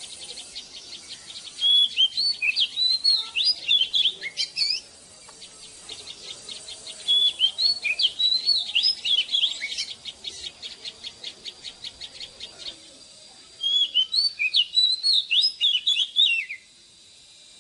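Oriental magpie-robin singing: three loud phrases of varied, sliding whistled notes, each about three seconds long, with short pauses between. A fast, even ticking sounds behind the song through the middle of the stretch.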